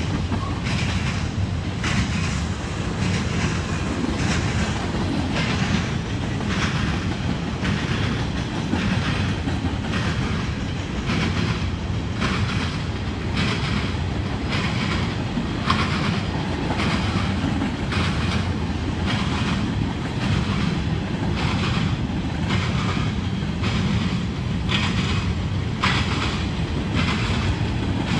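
Freight train of covered hopper cars rolling past at close range: a steady low rumble of steel wheels on rail, with a regular clickety-clack a little more than once a second as the wheels cross rail joints.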